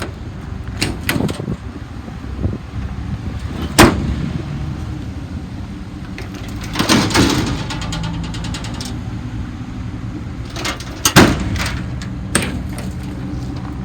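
Steel utility-bed cabinet doors being opened and slammed shut, latches clacking: a series of sharp metal bangs, two of them much louder than the rest. Under them runs a steady low engine idle.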